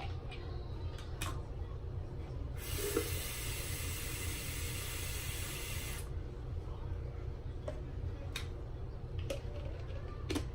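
A steady hiss of water lasting about three and a half seconds, starting about two and a half seconds in and cutting off sharply, with a few light clicks and a steady low hum around it.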